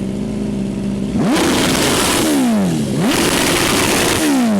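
An engine idling, then revved hard twice: the pitch shoots up about a second in and falls back, then shoots up again and drops back toward idle near the end.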